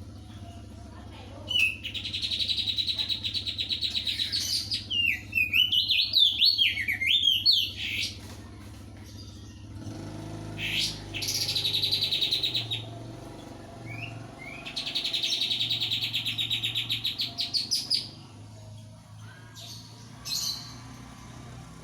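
Crested white-eye (opior jambul) singing loudly: three long, rapid trills of about three seconds each, a burst of varied warbling notes between the first two, and short single chirps in the gaps.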